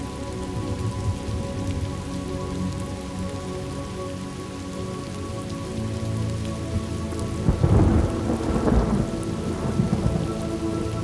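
Steady rain falling, with a roll of thunder that swells about three quarters of the way through and rumbles for a couple of seconds. Several steady low tones are held underneath the rain.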